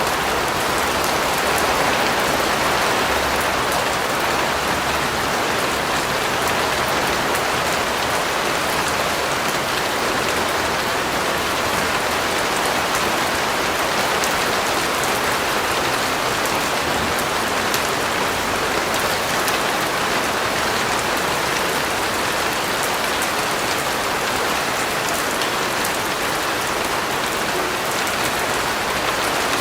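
Steady rain falling and pattering on a surface, an even hiss of many drops with fine ticks of single drops.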